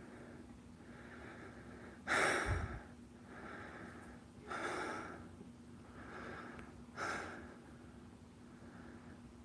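A person breathing heavily close to the microphone: softer breaths alternate with three louder, sharp breaths about two and a half seconds apart.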